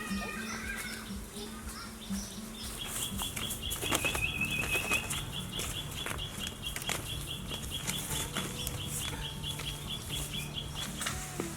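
Chickens flapping their wings and scuffling, heard as scattered short flaps and knocks. From about three seconds in until near the end, a high, even chirping repeats about five times a second.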